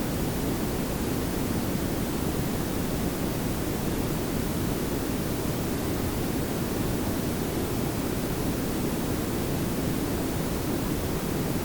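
Synthetic pink noise and brown noise layered together, a steady, even hiss over a deeper low rumble.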